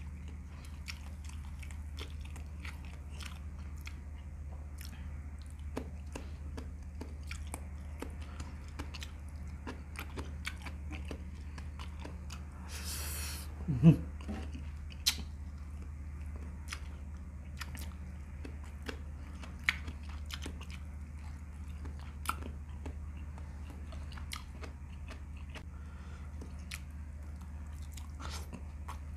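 Close-up eating sounds of a man chewing chilli chicken, mutton and rice: wet chewing with frequent lip smacks and sharp mouth clicks, over a steady low hum. About halfway through, a louder breathy rush of about a second ends in a short low vocal sound.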